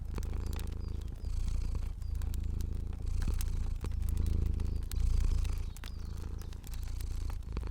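A cat purring, the low purr swelling and easing with each breath about once a second, with the sharp pops and snaps of a crackling fire scattered over it.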